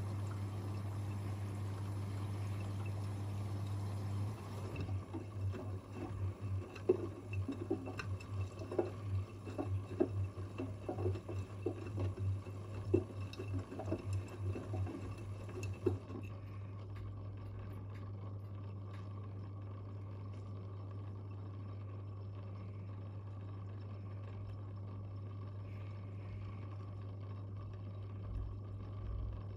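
Front-loading washing machines mid-wash, with water running and a low, steady hum. From about five seconds in to about sixteen seconds, a string of irregular sloshes and soft knocks comes from laundry and water turning in the drum, then the sound settles back to a steadier wash.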